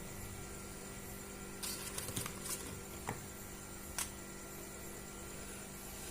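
Steady electrical mains hum, with a short burst of rustling and small clicks about two seconds in and two sharp clicks a second apart around the middle.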